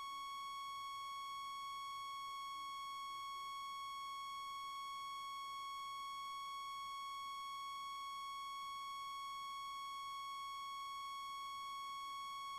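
A single steady electronic tone with a stack of overtones above it, held unchanging throughout, with no engine or cockpit noise behind it.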